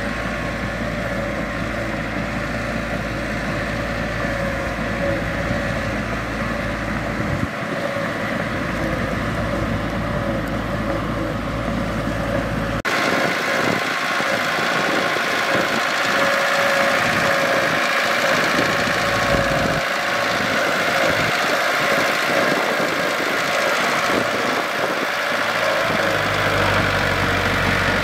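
Mitsubishi bulldozer's diesel engine running steadily, with a constant engine hum. About halfway through the sound changes abruptly: the low rumble drops away and the engine and track noise becomes louder and harsher.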